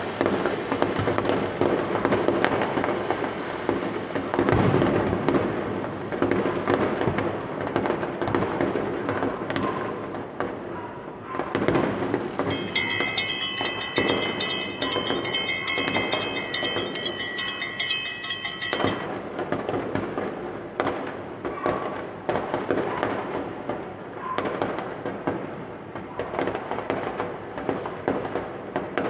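Aerial fireworks display: a dense, continuous run of bangs, pops and crackling bursts. About halfway through, a steady high multi-tone sound is laid over it for around six seconds and then cuts off sharply.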